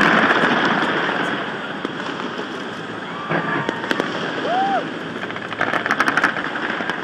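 A fireworks display going off in a continuous crackling rumble of bursts, loudest at the start. About six seconds in comes a quick run of sharp crackling pops.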